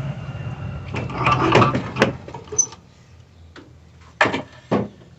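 Scraping and rubbing of a car radiator and its plastic fittings being worked into place, with a sharp knock about two seconds in and two more knocks near the end.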